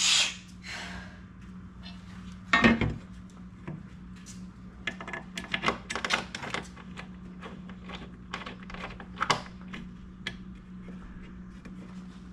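Metal clinks and knocks of a door armor panel and its bolts being handled as the panel is held up against the door and the bolts are started. Two louder knocks, one at the start and one under three seconds in, then a run of light clicks and taps, with a low steady hum underneath.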